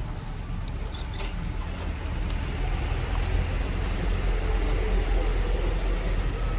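Small electric rotary tool running steadily, scrubbing old battery adhesive off the phone's frame, growing a little louder about two seconds in.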